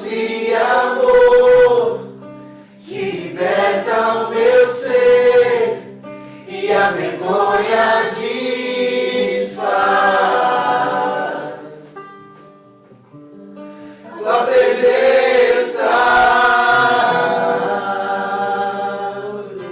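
A group of voices singing a Portuguese worship song in sustained phrases, with acoustic guitar accompaniment; the singing drops away briefly in the middle before the next phrase comes in.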